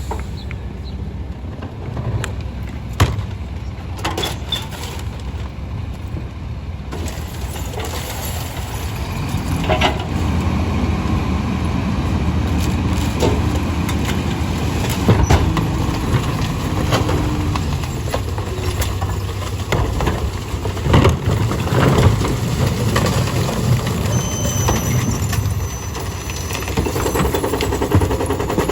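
Split-body garbage truck running, with scattered knocks and clanks over the steady engine. It gets louder from about eight seconds in.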